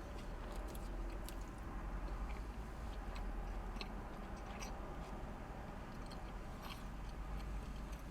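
A man chewing a mouthful of Whopper burger with his mouth close to the microphone: soft wet chewing with small clicks and smacks over a steady low hum.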